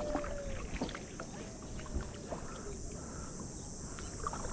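Kayak on the move: a paddle dipping and water splashing and dripping against the hull in scattered small splashes, over a steady high hiss.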